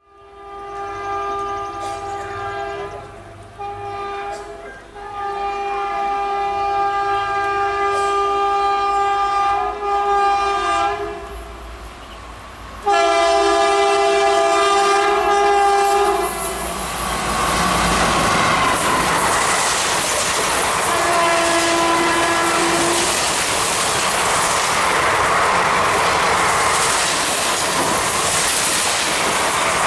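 Locomotive horn of an Indian Railways express sounding in long blasts with short breaks as the train approaches, growing louder about thirteen seconds in. Then the train passes at high speed with a loud rush and the clickety-clack of wheels over rail joints, and one more short horn blast partway through the pass.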